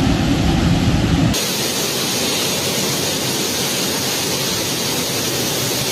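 Steady rushing storm noise from typhoon flood footage: a deep rumble that switches abruptly about a second in to a brighter, even hiss, like torrential water or wind-driven rain.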